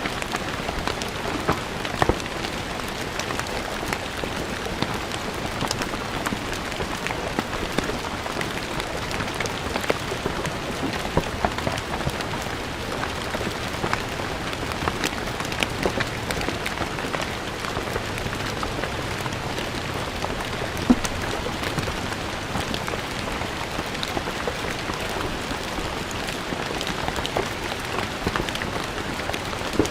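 Steady rain falling on stone paving, a continuous patter with many distinct drops hitting and splashing close by.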